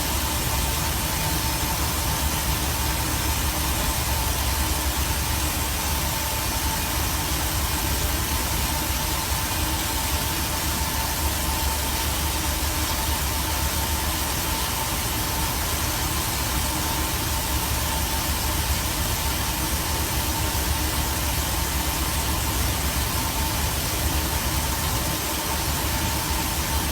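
Compressed air and water blowing out of an air compressor tank's open drain valve in a steady hiss, with a low hum and a faint whistle beneath it; the long blow-out of water shows a tank left undrained and full of condensed moisture.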